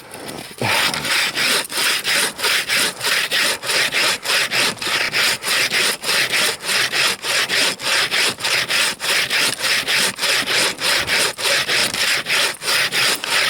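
Bow saw cutting through frozen fir wood in fast, even back-and-forth strokes, starting about half a second in.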